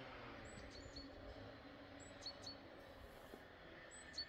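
Faint, quiet outdoor background with several short, high chirps of a small bird scattered through it.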